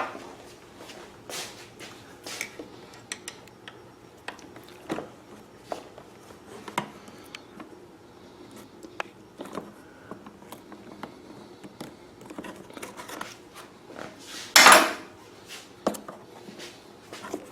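Small metal clicks and taps of a hose clamp and rubber fuel hose being handled while fitting the hose, with one louder scraping rub about three seconds before the end.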